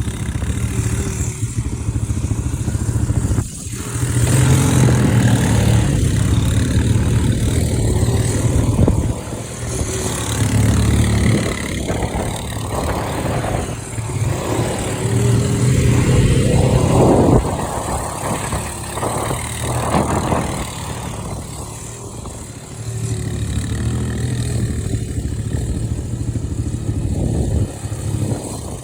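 Quad bike engine running under way, revving up and easing off several times as the bike is ridden.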